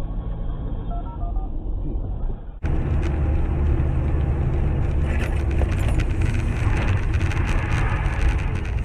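Car driving noise from dashcam recordings: steady engine and road rumble. About two and a half seconds in it cuts to a louder recording with heavy low rumble and many small rattles and clicks.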